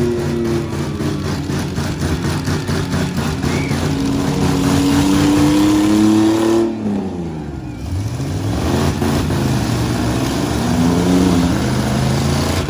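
Full-size demolition derby trucks' engines revving hard. The pitch climbs for several seconds, drops sharply about seven seconds in, then rises and wavers again.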